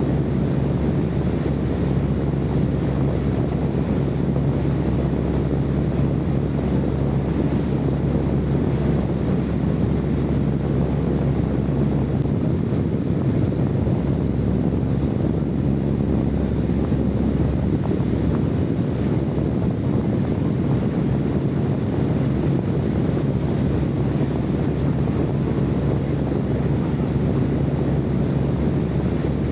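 Steady, unchanging low rumbling noise with a constant low hum running through it. It is live-recorded noise used as sleep-aid white noise.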